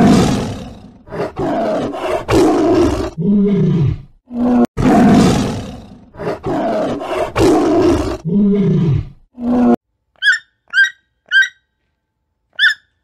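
Tiger roaring and growling, a series of loud roars with lower, falling moans, the same sequence heard twice over. After it stops, about five short, high bird calls.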